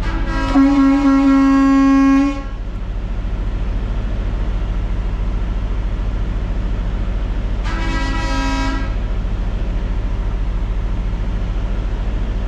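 A vehicle horn honks twice: a long blast of about two seconds, then a shorter one about seven seconds later. Underneath, the steady idle of a truck's diesel engine.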